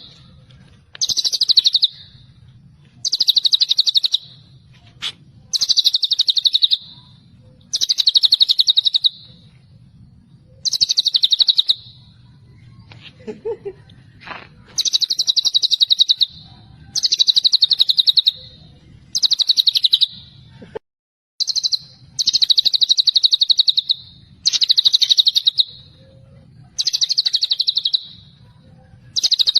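White-rumped shama (murai batu) singing the same rapid, high trilled phrase over and over. Each burst lasts about a second and repeats roughly every two seconds.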